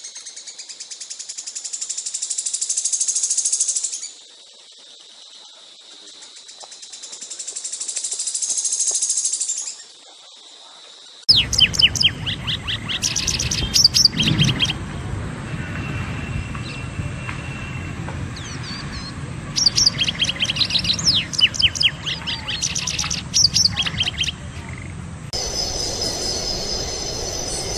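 Songbirds singing. First comes a high, rapid trill that swells and fades twice. From about eleven seconds in, there are repeated bursts of quick downward-sweeping notes. Near the end a different high, ringing song takes over.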